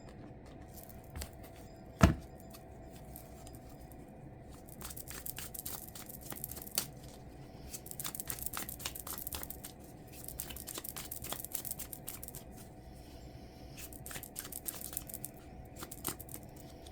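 Tarot cards being handled and shuffled: papery rustling and quick clicks of card edges in bursts, with one sharp tap about two seconds in.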